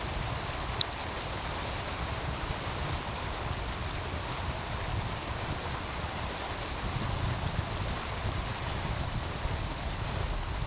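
Wood fire crackling, with scattered small pops and one sharp loud pop about a second in, over the steady rush of a meltwater stream and a low rumble underneath.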